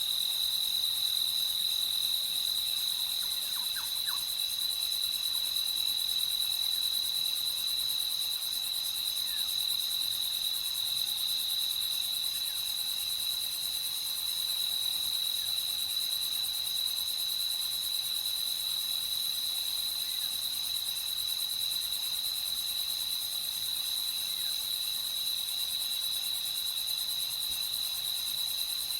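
A steady chorus of night crickets trilling continuously on a high, unchanging pitch. A few faint brief calls from another creature come in about three seconds in.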